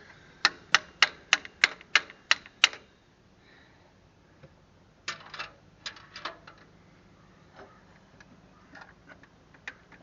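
Sharp clicks from hand tools working on the tractor: a run of eight evenly spaced clicks, about four a second, then a shorter uneven cluster a few seconds later and a few faint scattered clicks.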